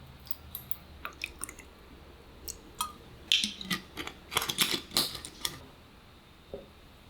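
Light clicks and taps of small objects being handled, growing into a busier run of clatter about three seconds in that stops about two seconds later.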